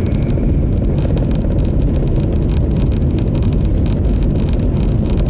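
Hyundai car driving along, heard from inside the cabin: a steady, loud low rumble of engine and road noise.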